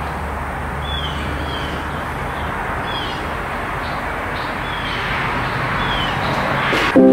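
A bird chirping over and over in short, falling notes about once a second, over a steady hiss of rain.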